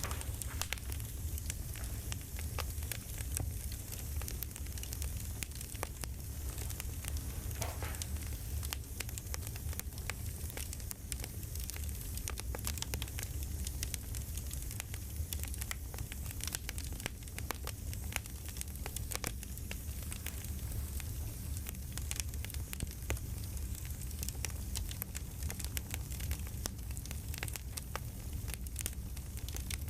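Campfire crackling: frequent small sharp pops and snaps over a steady low bed of fire noise.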